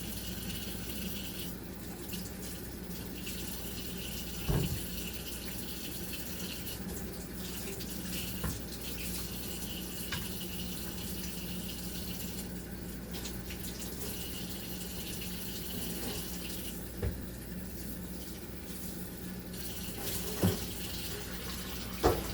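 Kitchen tap running steadily into a sink, with a few short knocks of things being handled in it.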